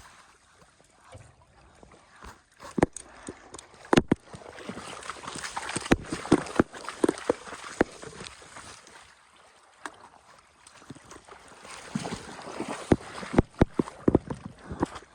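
Water splashing, broken up by irregular knocks and clatters that come in clusters near the start, around the middle and near the end.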